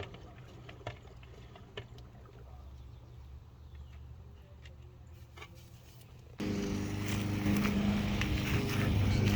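A car engine running: first a low hum with a few sharp clicks, then about six seconds in a much louder, steady engine sound comes in abruptly.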